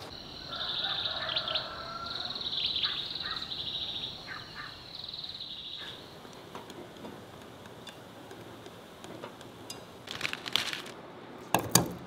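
Birds chirping and trilling in quick high pulses for about the first six seconds, then a few clicks and a single sharp knock near the end.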